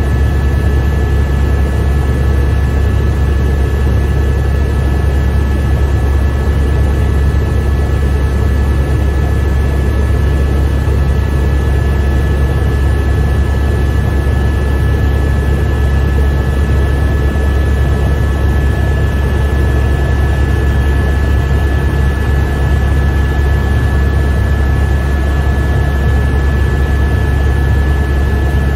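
Helicopter in cruise flight heard from inside the cabin: a loud, steady low drone of the rotor and engine with a steady high whine on top.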